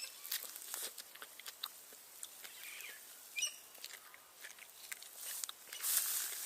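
Irregular small crackles and clicks with rustling, as of dry plant material being handled or crunched, and a short bird chirp about three and a half seconds in; a louder rustle comes near the end.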